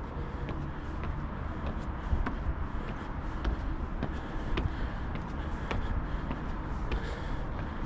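Footsteps on a wooden staircase: a thud a little over once a second with light clicks in between, over a steady low background rumble.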